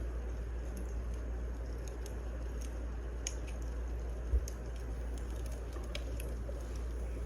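Burning firewood crackling, with sparse sharp pops over a low steady rumble, and one dull thump about four seconds in.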